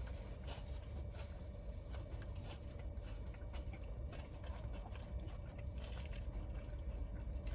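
Quiet eating sounds: chewing and scattered light clicks over a steady low hum.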